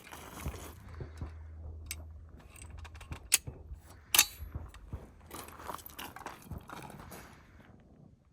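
Rustling handling noise with scattered metallic clicks, the two sharpest about three and a half and four seconds in, as a handgun is handled and readied with a single round and no magazine.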